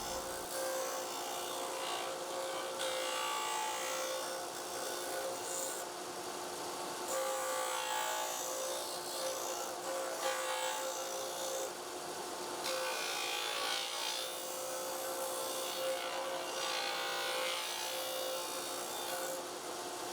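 Power sander running with a steady hum while the corners of a cedar board are sanded round against it, the rasp of wood on abrasive coming and going in several passes.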